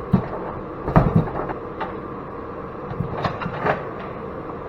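A handful of sharp knocks and clatters from scrap metal parts being handled and pulled apart, about five over the few seconds, over the steady hum of a heater running.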